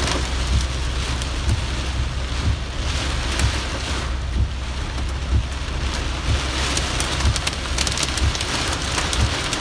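Heavy rain pelting down in strong wind: a steady hiss of rain with many sharp ticks of individual drops, thickest in the second half, over irregular low thumps.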